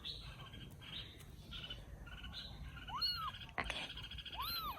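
Baby kittens mewing: two clear high mews, each rising and falling in pitch, about three seconds in and again near the end, over a faint continuous trilling chatter.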